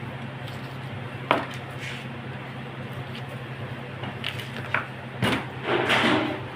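A few sharp knocks during food preparation: one about a second in, several lighter ones near the end, then a brief clatter, over a steady low hum.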